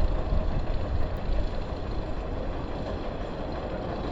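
Strong wind buffeting the microphone in heavy rain, a gusty low rumble over a steady rushing noise that eases a little after the first second or so.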